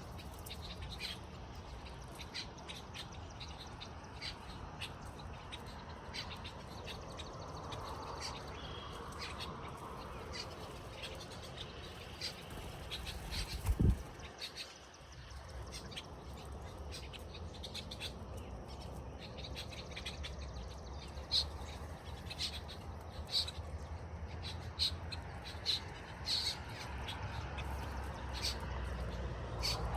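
Small birds chirping in short, high calls scattered throughout, over a steady low rumble of wind. A single loud thump sounds about 14 seconds in.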